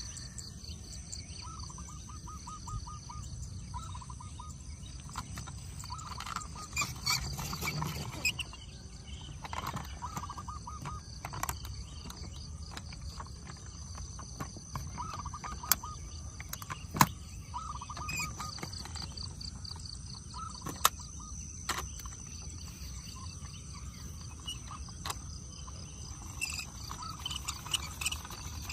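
Outdoor ambience: a steady high insect trill, with repeated short bursts of rapid chirping and a few sharp clicks.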